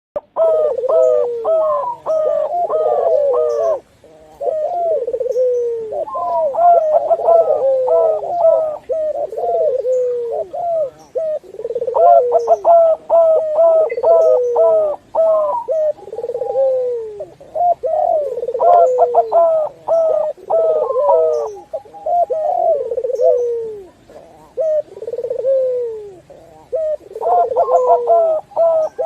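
Several doves cooing over one another, a mix of zebra doves, Barbary doves and spotted doves. Repeated falling coos are overlapped by quick runs of short, higher notes, with brief pauses between phrases.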